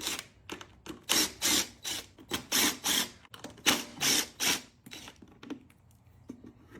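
A hand ratchet wrench worked in short back-and-forth strokes, a string of about eight quick clicking rattles that trail off to fainter handling noises near the end.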